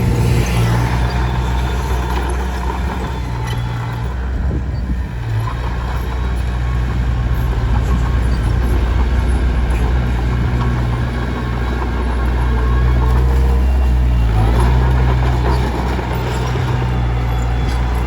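Komatsu D21P bulldozer's diesel engine running under load, easing briefly about four seconds in and working harder around two-thirds through, with steady mechanical clatter over it.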